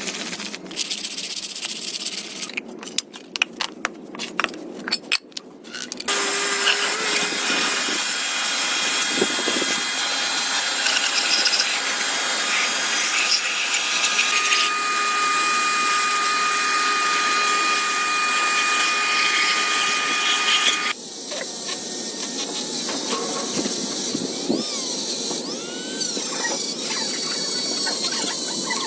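Workshop power tools running, cut together from several short clips. A steady high whine runs through the middle and the sound changes abruptly about six seconds in and again about twenty-one seconds in.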